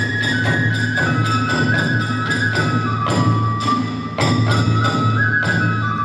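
Hiroshima kagura hayashi music: a bamboo flute (fue) plays a held melody that steps downward in pitch, over a steady low drum and sharp metallic clashes of small hand cymbals (tebyōshi) about two to three times a second.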